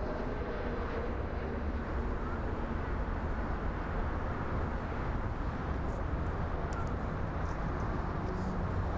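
Steady rumble of jet aircraft engines at an airport, even in level throughout.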